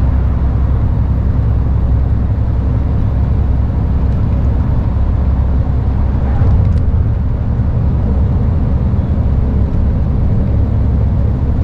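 Steady low drone of a lorry's diesel engine with road noise, heard while the truck is driving.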